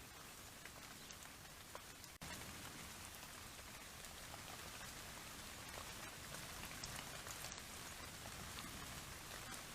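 Light rain pattering, a steady faint hiss dotted with small drop ticks, picked up by an outdoor trail camera's microphone. It breaks off for an instant about two seconds in and comes back slightly louder.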